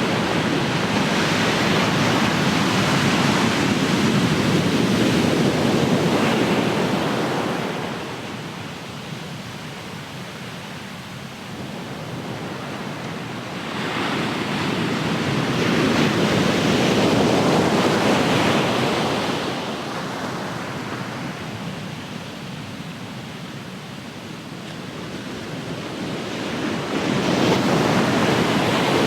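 Ocean surf: waves wash in and fall away in slow surges, with three loud swells about every 13 seconds and quieter lulls between them.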